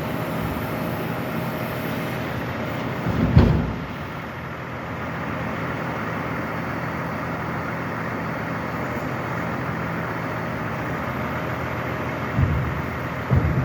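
A log-loading truck's engine running steadily, with a sudden loud thump about three seconds in and two smaller knocks near the end.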